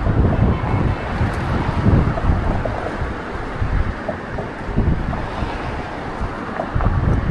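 Strong gusty wind buffeting the microphone: an uneven low rumble that swells and eases in gusts.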